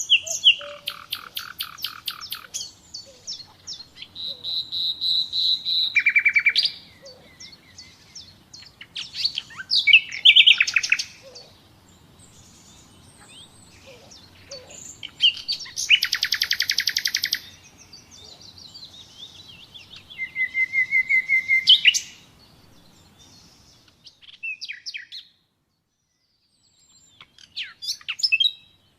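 Nightingale singing: varied phrases of fast repeated notes, rattling trills and pure whistles, separated by short pauses. There is a brief silent gap about three-quarters of the way through before the song resumes.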